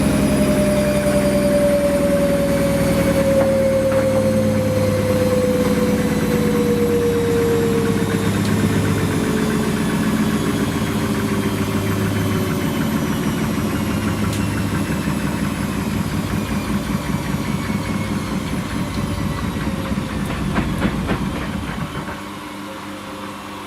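Washing machine's electric motor running and slowly winding down, its whine falling steadily in pitch. A rapid rhythmic knocking comes in past the middle, and the sound drops off sharply near the end.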